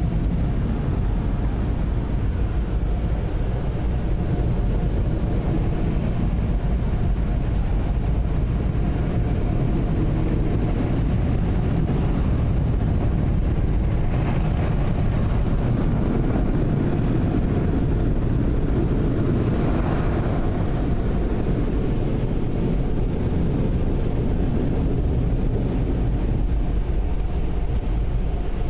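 Automatic car wash machinery heard from inside the car: a loud, steady roar with a faint steady hum running through it.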